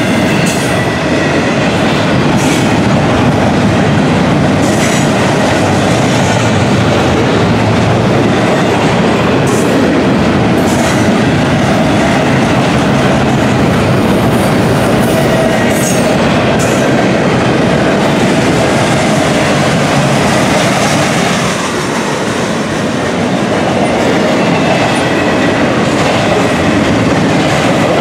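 Double-stack intermodal container well cars rolling past close by: a loud, steady rumble of steel wheels on rail with scattered sharp clicks.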